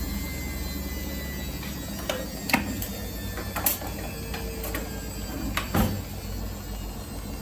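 Samsung WF1700WRW front-loading washing machine running its daily wash programme, a steady low hum, with a scatter of sharp clicks and knocks in the middle few seconds.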